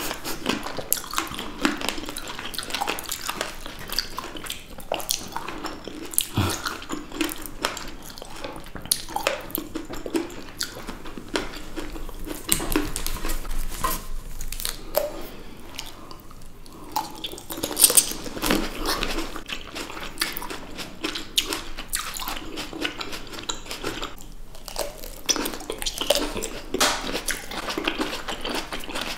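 Two people biting and chewing red grapes close to the microphone: wet mouth sounds with many small clicks and crunches.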